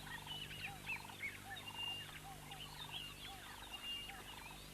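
Faint chorus of several wild birds calling at once: a low arched note repeated about twice a second, short buzzy notes, and higher chirps with a brief whistle over them.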